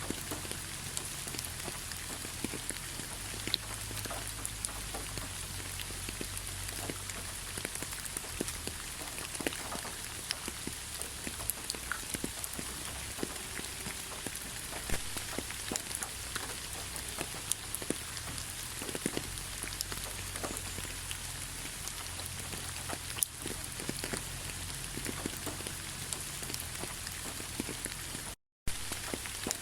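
Steady rainfall: an even hiss with many separate raindrops ticking through it. The sound cuts out completely for a fraction of a second near the end.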